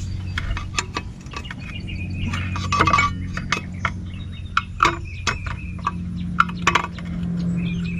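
Scattered light metallic clinks and taps of hand tools working around a car's front brake, over a steady low hum.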